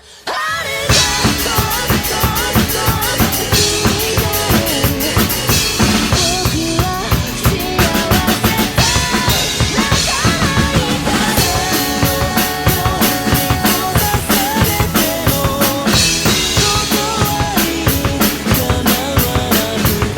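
Rock drum kit played hard along with the song's instrumental backing. It comes in suddenly and loud right at the start, then keeps a dense driving beat of bass drum, snare and cymbals.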